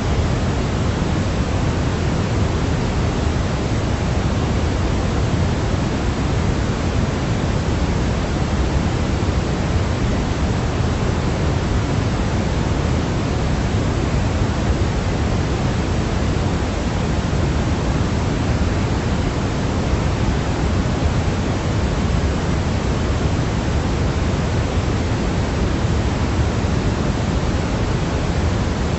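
Steady, unchanging pink-type noise, deeper in the low end than in the highs: a continuous sleep-noise track for a baby.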